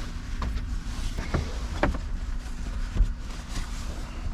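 Steady low vehicle rumble with a faint hum and a few short, sharp clicks and knocks.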